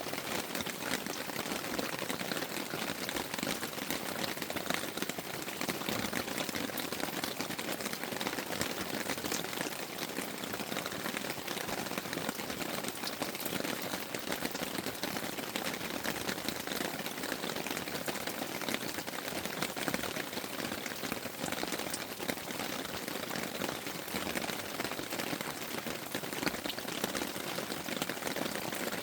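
Rain falling steadily on tent fabric, heard as a dense, even run of small drop ticks.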